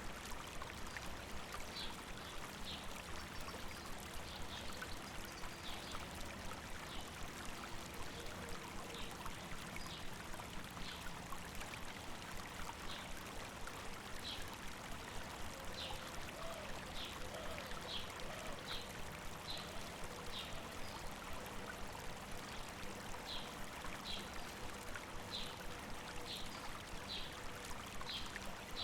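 A river flowing with a steady rush of water. A bird gives short, high chirps over it, repeated about once a second in runs, mostly in the second half.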